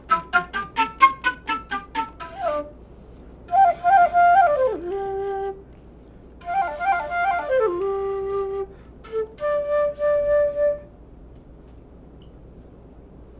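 Curved-neck flute playing: a run of quick, detached notes, then two phrases that fall in pitch and each settle on a held low note, and a last held note before it stops.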